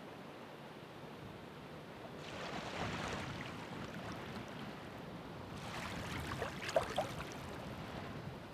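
Ocean waves washing in: a steady wash of surf with two louder surges of foamy water, about three seconds apart, the second carrying a few sharp splashes.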